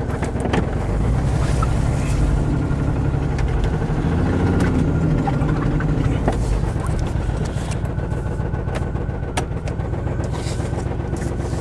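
1996 Chevy S10 Blazer's 4.3-litre V6 running steadily soon after a cold start, with a few sharp ticks over it. The truck has a bad muffler and a faulty injector spider.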